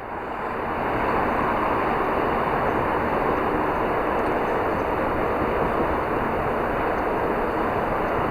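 Steady rushing wind noise on the microphone, building over the first second and then holding even.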